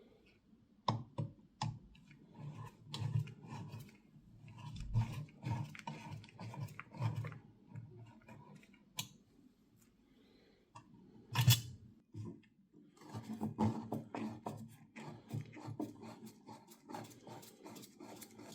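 Irregular clicks, light knocks and short scrapes of hand work on a small object, with one sharp, louder knock about eleven and a half seconds in.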